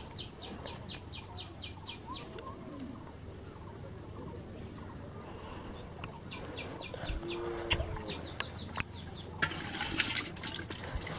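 Bird calls: quick trains of high clicking notes, about five a second, and a short low call about seven seconds in. A brief splash of water comes near the end.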